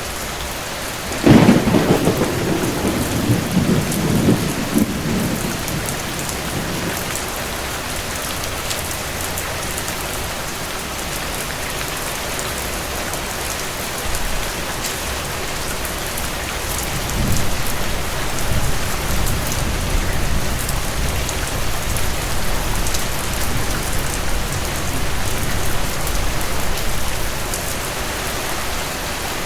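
Steady heavy rain falling, with a sudden thunderclap about a second in that rumbles away over several seconds. A second, lower roll of thunder builds up about halfway through and lasts around ten seconds.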